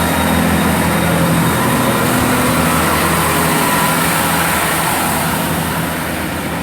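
Class 165 diesel multiple unit pulling away from a station platform, its underfloor diesel engines running under power with a steady drone and rail noise that eases slightly near the end.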